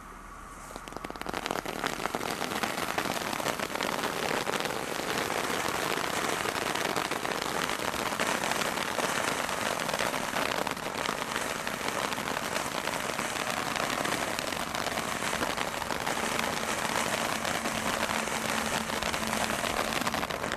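Small garden firework burning with a steady hiss and dense crackle of sparks. It starts about a second in and cuts off abruptly near the end.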